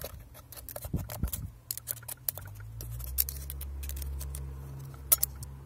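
Small metal parts of a car's electric power-steering column being handled and pulled out, giving a run of irregular sharp clicks and clinks. A low steady hum runs under them from about a second and a half in until near the end.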